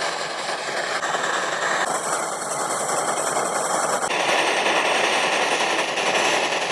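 A small motorised tool running with a fast, dense rattle. Its tone changes abruptly three times.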